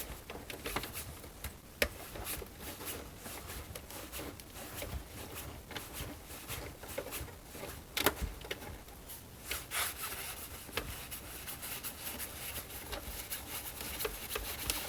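A screw being turned by hand with a screwdriver into a plastic boombox case: scratchy rubbing with scattered small clicks and ticks of the tool and parts. The screw is not seating, which is put down to screws mixed up between holes.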